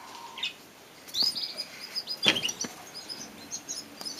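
Small aviary birds, canaries and budgerigars, chirping in short high calls, with a quick run of notes from about a second in. A single sharp knock sounds about two seconds in.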